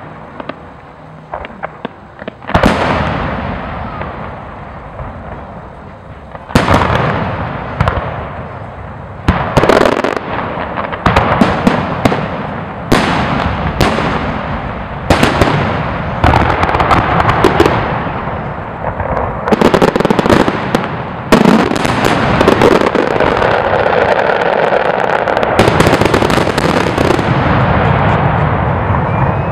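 Aerial firework shells bursting: a series of loud booms, each with a long echoing tail, coming more and more often until the last several seconds are a dense, continuous run of bangs and crackling stars.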